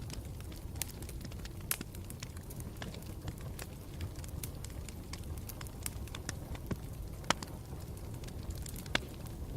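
Campfire burning with a steady low rumble and irregular sharp crackles and pops of the burning wood, a few louder snaps among them.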